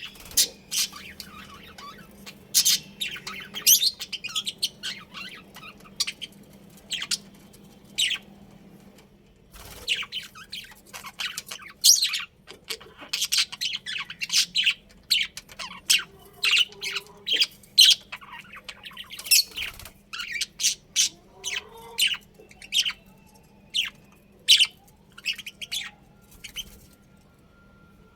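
Budgerigars chirping and squawking in quick, sharp, irregular calls, with a faint steady hum underneath.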